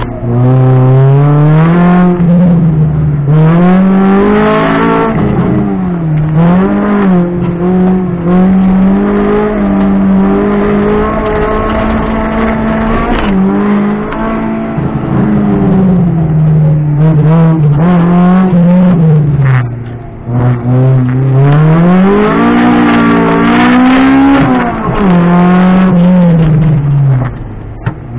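Honda Civic rally car's engine, heard from inside the cabin, driven hard: the engine note climbs as the car accelerates, then falls away as it slows for turns, over and over. There are short lulls about 20 s in and near the end.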